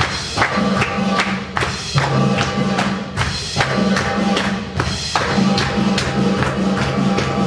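Belly-dance drum-solo music: Arabic hand drums playing a fast, busy rhythm of deep and sharp strokes.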